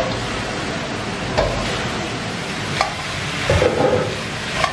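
Chunks of chicken sizzling loudly as they hit a hot wok, with a metal spatula scraping and knocking against the wok a few times as they are stir-fried.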